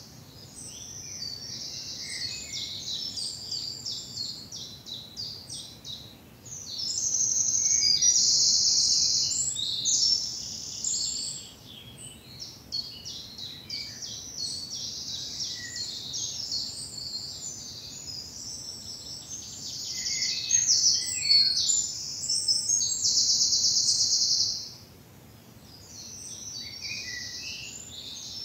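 Several woodland songbirds singing in a spring morning chorus, high-pitched overlapping phrases with no pauses. Long, loud rapid trills stand out twice, about a third of the way in and again near the end.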